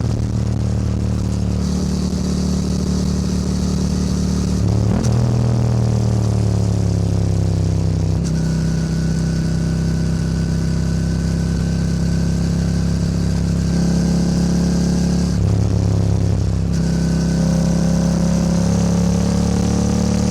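Yamaha R7 sport motorcycle's engine running under way, its note holding fairly steady with several shifts in pitch and a short sharp blip about five seconds in.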